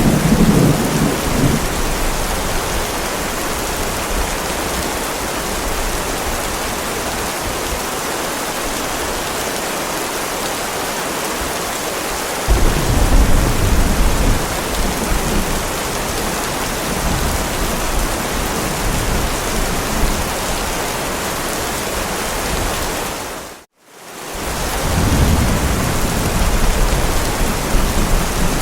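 Heavy rain pouring steadily, with deep rolls of thunder: one at the start, another that breaks in suddenly about halfway and rumbles for a few seconds, and a third near the end. Shortly before the last rumble the sound fades out to silence for a moment and returns, as at a loop join.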